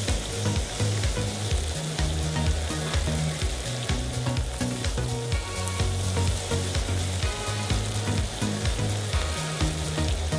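Chopped onion and garlic frying in hot oil in a non-stick pan with a steady sizzle; diced raw chicken is added and stirred in with a spatula, the sizzling going on.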